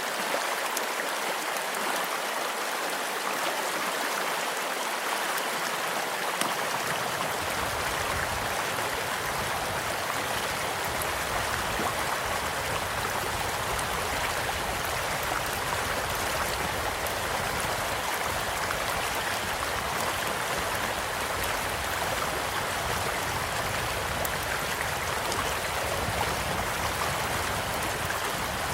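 Steady rushing of a small stream, with faint, scattered crackles from a campfire.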